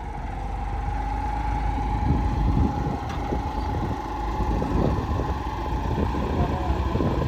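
New Holland 3630 tractor's diesel engine running steadily: a low rumble with a steady whine above it and some irregular knocks.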